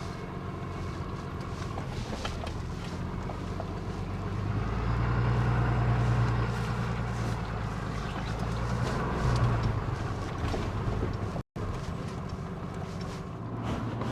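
Dually pickup truck's engine running as it crawls up a rocky trail, with scattered light knocks and rattles. The engine gets louder about a third of the way in, as if working harder on the climb, then eases back near the end.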